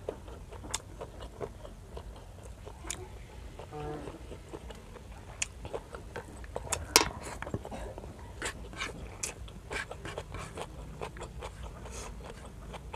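Close-up eating sounds: chewing and wet mouth smacks with frequent sharp clicks as grilled squid and rice are eaten by hand, the loudest click about seven seconds in.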